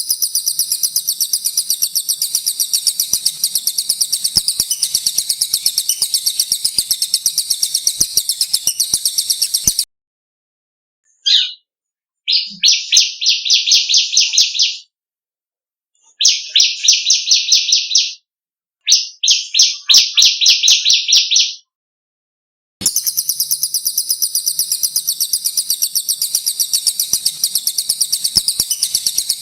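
Recorded songbird calls of the cililin and the ciblek. A long, very high, rapid rolling trill runs for about ten seconds and stops. After a short pause come four short bursts of slightly lower rapid trilling, each about two seconds long. Near the end the high rolling trill starts again.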